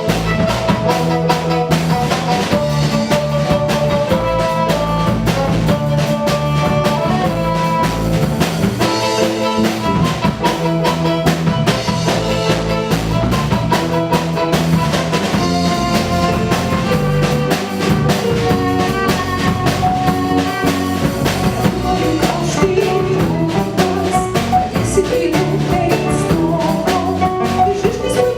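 Live band playing a mostly instrumental passage: a drum kit keeps a steady beat under sustained melodic instruments.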